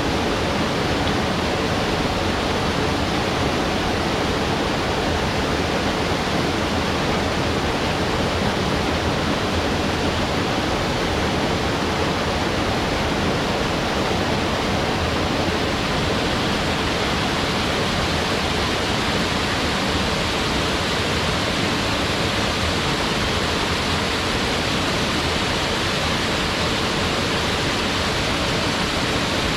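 Waterfall pouring steadily into its pool: a dense, unbroken rush of falling water at a constant level.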